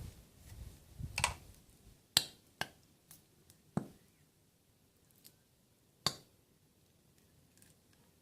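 A few separate sharp clicks and knocks, about five spread over six seconds, with a low rumble in the first second or so.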